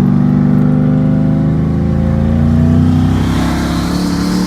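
Turbocharged Ford Coyote 5.0 V8 accelerating, its engine note climbing steadily in pitch. From about three seconds in, a rising turbo hiss builds over it, and the engine pitch begins to drop at the very end.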